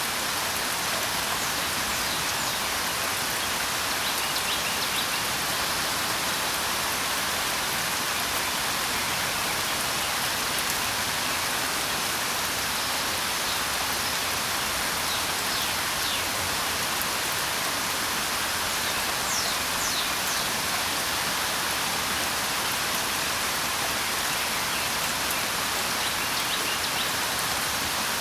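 Steady rain falling, an even hiss of many drops, with faint, short high bird chirps now and then.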